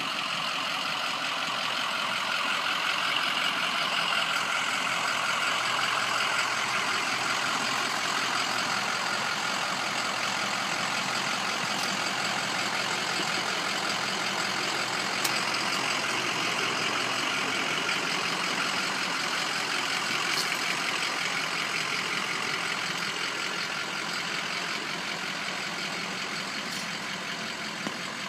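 Ford F-250 diesel pickup truck running, a steady, even noise with a few faint ticks.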